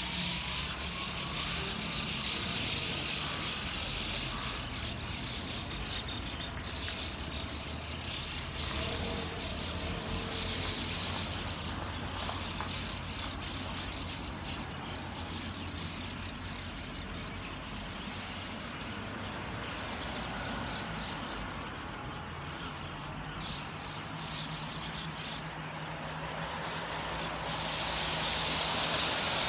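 Steady vehicle rumble with a low hum under an even hiss.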